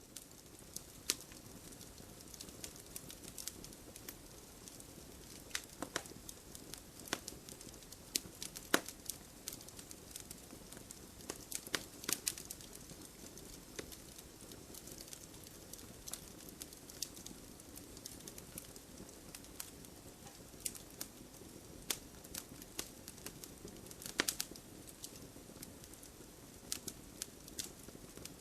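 Wood fire burning in a fireplace: irregular crackles and sharp pops from the burning logs over a low, steady rush of flame.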